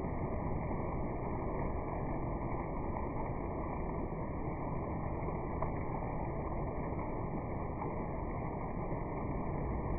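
Steady rain falling, an even rushing noise that does not let up.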